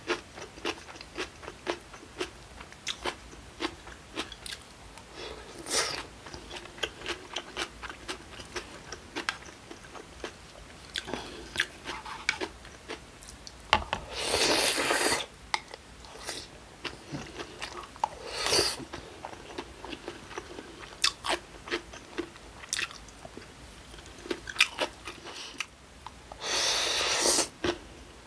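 Close-miked eating: chewing and crunching through acorn-jelly rice in cold broth with kimchi and vegetables, with many small wet mouth clicks. Twice, about halfway and near the end, there is a longer, louder rushing sound lasting about a second.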